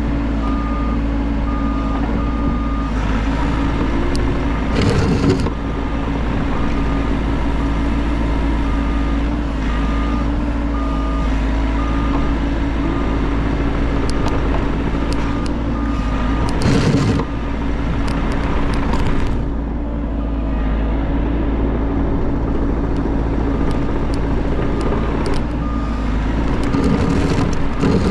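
Bobcat E50 compact excavator's diesel engine running steadily, with its motion alarm beeping about once a second. Three loud knocks of the machine working sound over it.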